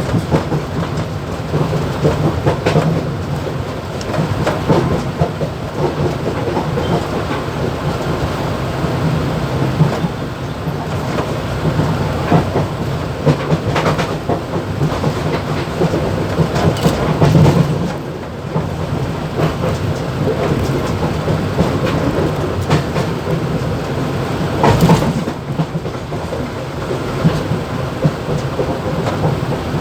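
Mumbai suburban EMU local train running at speed, heard from the motorman's cab: a steady low rumble of motors and wheels on rail with continuous rattling and clatter, and a few louder knocks now and then.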